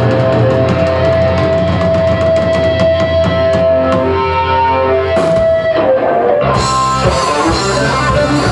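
Live rock band playing with electric guitar, bass and drum kit. The held guitar chords break off about five seconds in, and the full band comes back in a second or so later.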